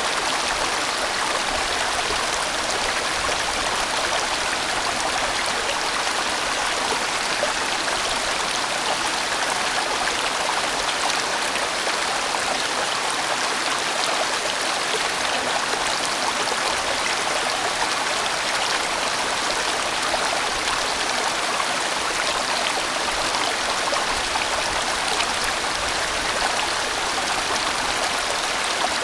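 A large mountain valley stream rushing steadily over rocks, a continuous even water noise with no breaks.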